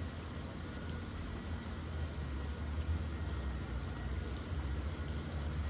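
Steady low outdoor rumble with no distinct events, such as wind on the microphone or distant traffic.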